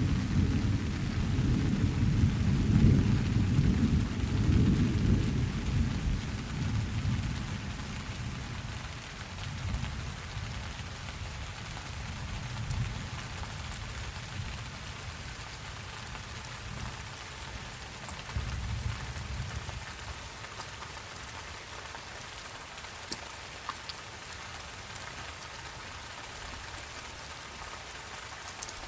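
Steady rain with a long, low roll of thunder that dies away over the first several seconds. A fainter rumble swells briefly a little past the halfway point.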